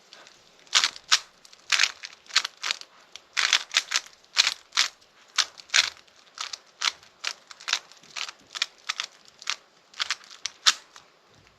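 Plastic Rubik's cube being turned by hand during a solve: layers clacking into place in a quick, irregular run of sharp clicks, two or three a second.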